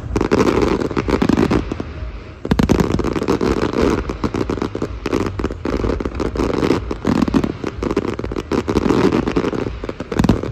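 Fireworks display: many shells and comets going off in quick succession, a dense run of bangs and crackling with a short lull about two seconds in.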